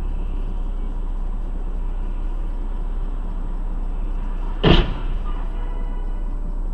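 Steady low drone of a car driving, with a single sharp bang about four and a half seconds in.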